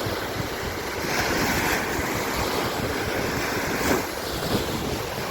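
Waves of the Mediterranean Sea breaking and washing onto the beach in a strong surf, with wind buffeting the microphone.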